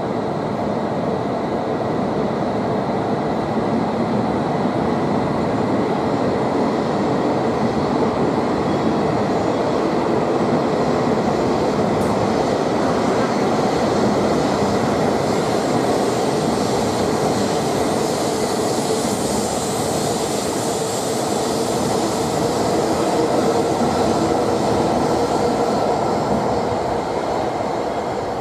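E5-series Shinkansen train pulling out of the platform and running away past it: a steady rush of running noise that grows louder and then fades near the end as the last car clears the platform.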